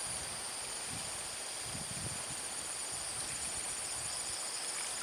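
Insect chorus: a steady high-pitched buzz together with an evenly pulsing trill, over a soft hiss of background noise.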